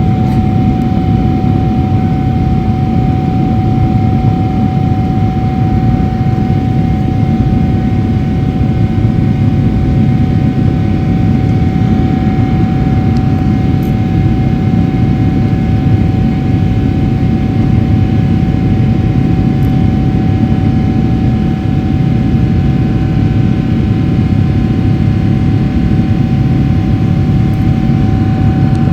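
Steady roar of the GE90-115B engines and airflow, heard from inside the cabin of a Boeing 777-300ER in flight after takeoff, with one constant hum held above the noise.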